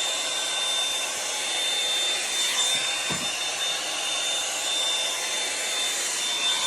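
Revlon One-Step hot air brush dryer running steadily: an even rush of air with a constant high whine from its motor.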